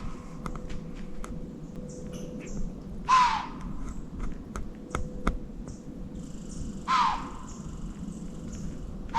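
A bird cawing: single harsh calls that drop in pitch, repeated about every four seconds, three times, the last one starting right at the end. Faint scattered clicks and ticks in between.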